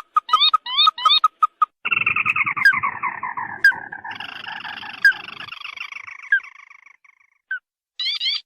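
Bird lure call of the tututan mata merah: short clipped notes and quick upswept whistles, then a few seconds of dense, harsh chattering that falls in pitch and fades out, with upswept notes returning near the end.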